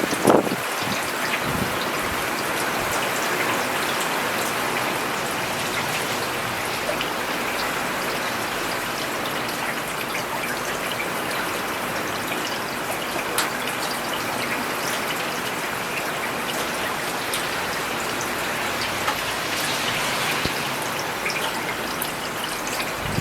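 Steady rain falling on a road, an even hiss of many drops with scattered sharper drop ticks. A brief low rumble sounds right at the start.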